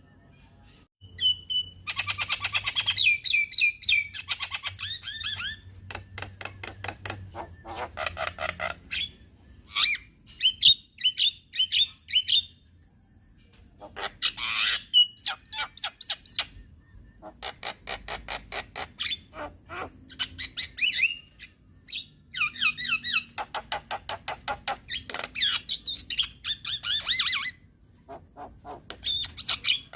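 Javan myna calling in bursts of fast, rapidly repeated notes mixed with short whistled phrases, each burst lasting a few seconds with brief pauses between.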